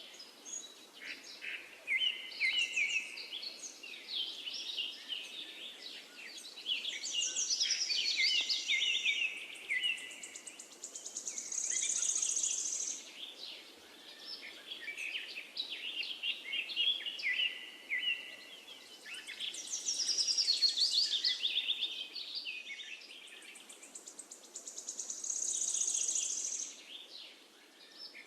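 Several songbirds chirping and trilling in overlapping phrases, with a high steady buzz a couple of times that may be an insect.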